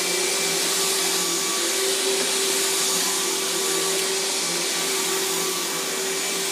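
Riccar 10-amp bagged vacuum cleaner running steadily, its motor holding one unchanging pitch.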